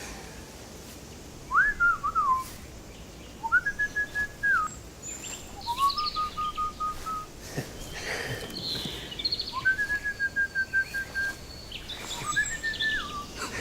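Outdoor wetland ambience with five clear whistled bird phrases, each rising quickly to a held, slightly warbling note and dropping away. Fainter high chirps from other birds come in between them.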